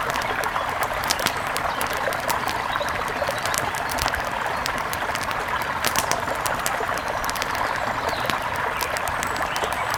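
Steady rush of a mountain river, with many short, sharp clicks and pops scattered through it.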